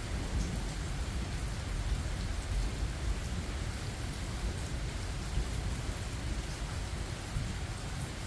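Steady rain falling in a thunderstorm, with a low rumble of thunder underneath that eases toward the end.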